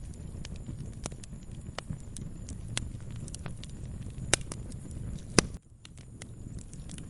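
Wood fire crackling in a fireplace: irregular sharp pops and snaps over a low, steady rumble of the flames, with two loud pops a little after four and five seconds in. The sound cuts out for a moment just after the loudest pop, then the crackling resumes.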